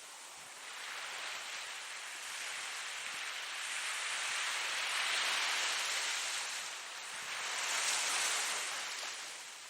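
Ocean surf washing in, an even rush of water that swells and eases twice, loudest about halfway through and again near the end.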